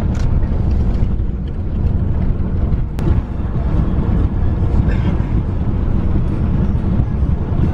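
Steady low rumble of road and engine noise inside a moving car, with a single sharp click about three seconds in.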